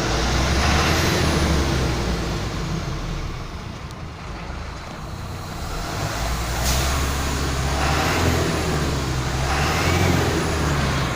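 Volkswagen 17-230 OD bus chassis's four-cylinder diesel engine being revved about three times, the engine note swelling and easing off each time, with a high whistle climbing and falling with each rev.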